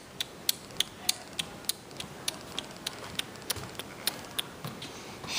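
Hazard-light flasher ticking steadily, about three clicks a second.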